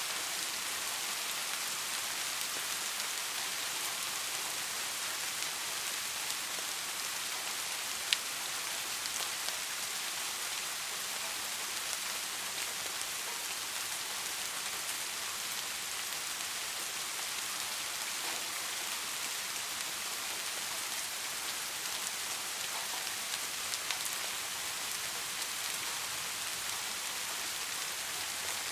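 Steady rain: an even hiss of falling rain with fine scattered drop ticks, and one sharper drip about eight seconds in.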